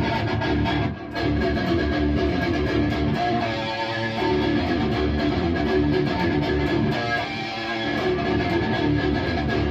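High-gain electric guitar through a Bogner Uberschall preamp module, playing a fast palm-muted chugging riff with the distortion continuous. There is a brief break about a second in.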